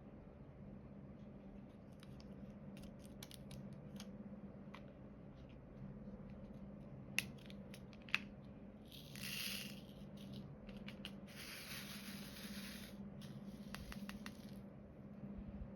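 Small clicks and taps of diamond-painting work, with two sharper clicks about seven and eight seconds in, then three spells of rattling, like tiny resin diamond drills shaken or poured in a plastic tray, over a low steady hum.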